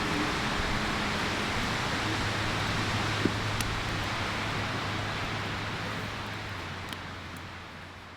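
A steady rushing noise with a low hum underneath and a few faint clicks, fading out toward the end.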